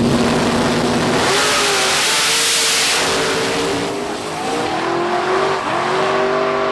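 A big-wheel donk car's engine revving hard, its pitch climbing in repeated rises. About a second in there is a loud rushing hiss that lasts about two seconds.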